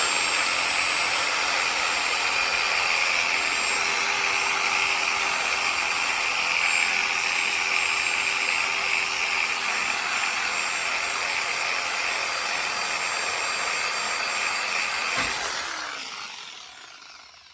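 Electric power tool spinning up with a rising whine and running steadily for about fifteen seconds. It then winds down with a falling whine near the end.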